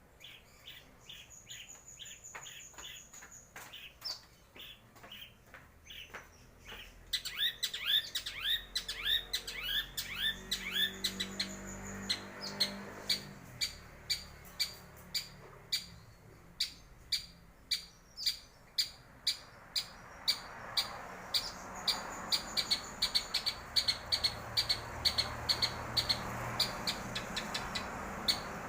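Long-tailed shrike (cendet) singing: a fast run of sharp repeated chirps, with bursts of quick downward-swept notes and a thin high whistle at times, over a steady hiss in the second half.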